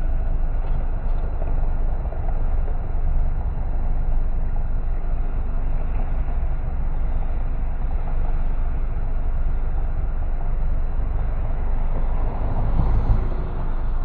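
A car driving along a street: steady road and tyre noise with a deep rumble, and a brief louder swell near the end.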